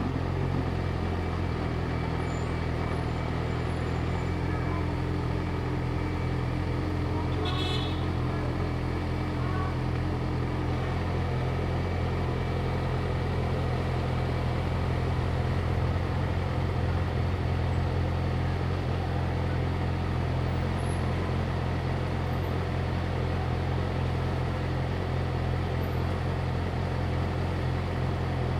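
Yamaha YZF-R6's inline-four engine idling steadily, with street traffic around it. A brief high chirp sounds about eight seconds in.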